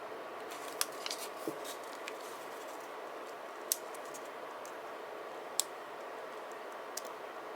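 Scattered light clicks and taps of paper and sticker sheets being handled for journal decorating, about seven in all, over a steady background hiss.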